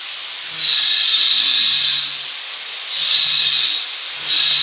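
Electric power drill running in short bursts, three times, each a second or so long with brief pauses between, a high-pitched whine.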